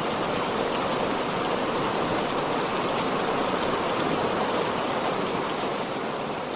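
Heavy rain falling steadily, starting to fade out near the end.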